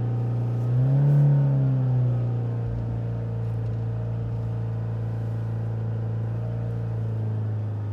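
Ford S-Max 2.0 TDCi four-cylinder diesel engine held at raised revs, with a brief extra blip about a second in that rises and falls again. The revs are held up to heat the exhaust and burn out a diesel particulate filter blocked by soot, with cleaning additive in it.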